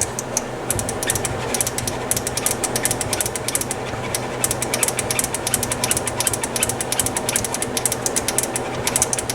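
Harman Kardon 330C receiver's switches clicking rapidly and irregularly as they are worked back and forth to clean their contacts, over a steady low hum.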